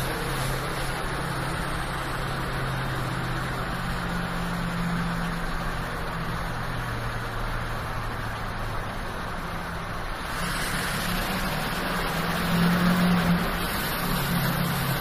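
LMM Duramax 6.6-litre V8 turbodiesel pulling under load while towing a heavy fifth-wheel trailer, with the steady drone of the engine and a thin, high turbo whistle. The whistle fades away near the start and comes back about ten seconds in, rising in pitch as the engine note swells.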